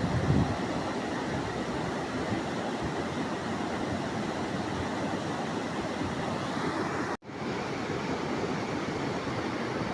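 Steady rush of fast-flowing water, a rain-swollen torrent running down the hillside. The sound cuts out for an instant about seven seconds in and comes straight back.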